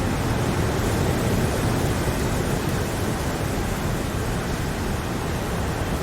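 Steady rain, an even rushing hiss with a low rumble beneath it.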